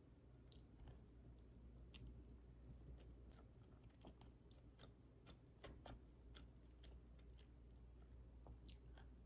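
Faint chewing and biting, with scattered small clicks and taps, as a person eats.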